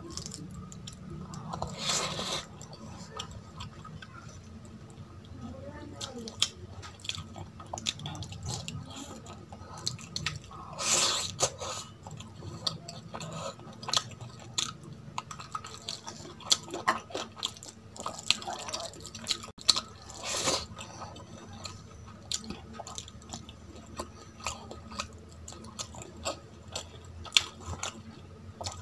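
Close-miked eating: chewing and wet mouth clicks as rice and curry are eaten by hand, with the squish of fingers mixing rice into gravy. A few louder, longer sounds stand out, about 2, 11 and 20 seconds in.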